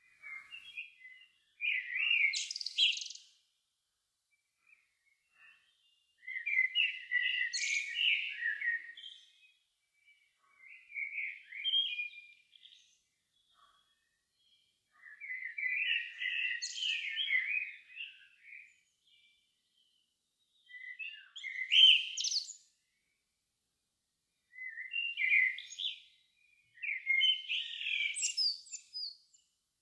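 A songbird singing a run of separate warbled phrases, each two to three seconds long with short pauses between, several ending in brief high squeaky notes.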